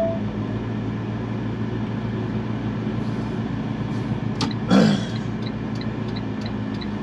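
Semi truck's diesel engine idling steadily, heard from inside the cab. About five seconds in there is a brief louder sound that falls in pitch, followed by a light ticking at about three ticks a second.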